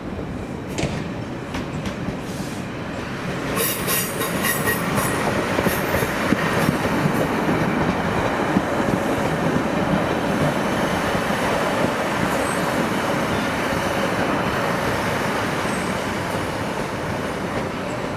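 A passenger train moving through the station, its running noise swelling about three seconds in and easing off near the end. There is a cluster of high metallic squeals and clicks from the wheels on the track about four seconds in.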